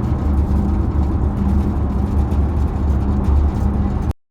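Steady low rumble of a car's engine and road noise heard from inside the cabin, with a faint steady hum above it. It cuts off abruptly about four seconds in.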